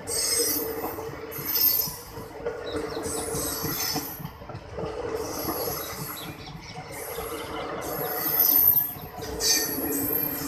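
Blue Indian Railways express coaches rolling slowly past at close range, wheels rumbling over the rails. High-pitched wheel squeal comes and goes every second or two.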